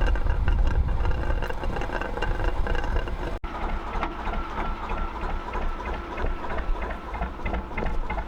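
Gardner 2LW two-cylinder diesel on a narrowboat running steadily with a low rumble and a fast, even mechanical clatter. The sound breaks off for an instant about a third of the way in and then carries on.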